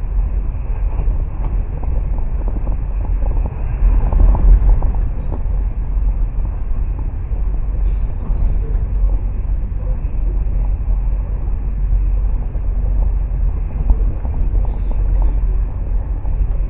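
Passenger train running at speed, a steady low rumble that swells briefly about four seconds in.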